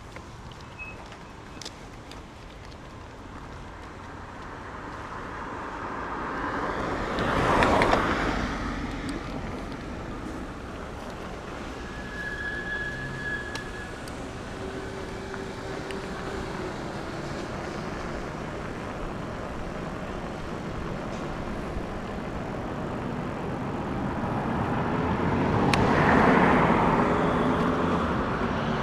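Road traffic passing: two vehicles go by, each swelling up and fading, the first about eight seconds in and the second near the end, over a steady bed of road noise.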